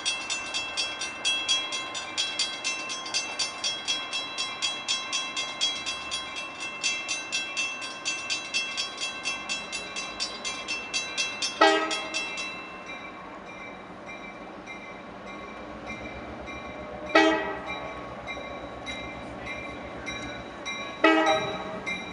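A railroad crossing bell rings rapidly, about four strikes a second, then fades to a fainter ringing after about twelve seconds. A train horn sounds three short blasts, the first as the bell fades and the others about five and nine seconds later.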